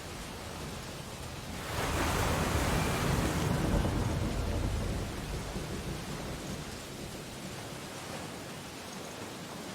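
Ocean surf on a beach: steady wash, with one wave breaking and surging about two seconds in, then receding.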